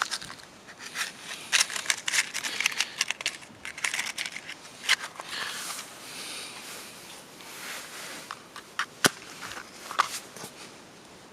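Gear being handled by hand: irregular crinkling and rustling with many small clicks and taps. It quietens after about six seconds, with two sharp clicks about nine and ten seconds in.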